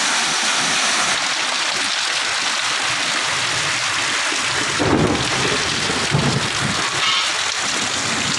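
Heavy rain pouring steadily in a thunderstorm, with low rumbles swelling about five and six seconds in.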